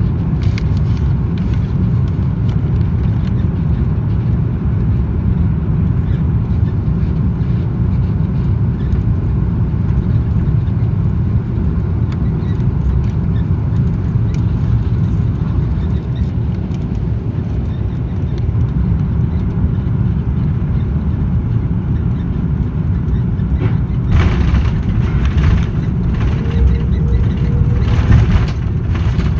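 Airbus A330 cabin noise: a steady low rumble of jet engines and airflow heard from inside the passenger cabin. About 24 seconds in it turns louder and harsher, with noise that comes and goes.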